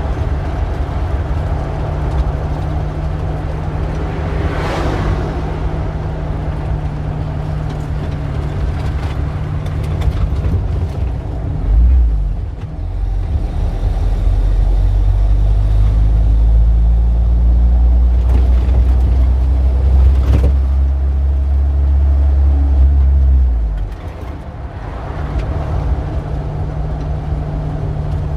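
Street traffic: vehicles passing over a steady engine hum. A louder, deeper engine rumble comes in about twelve seconds in and drops away sharply about twelve seconds later.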